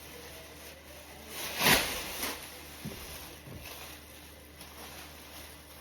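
Plastic rain pants rustling as they are handled, with one loud swish about a second and a half in and a few soft knocks after.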